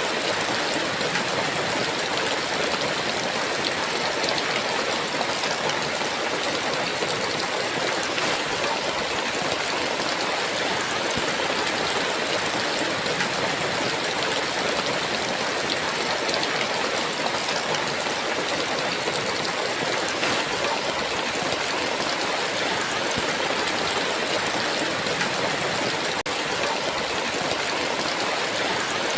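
Heavy rain falling in a steady downpour, an even hiss without breaks or thunder.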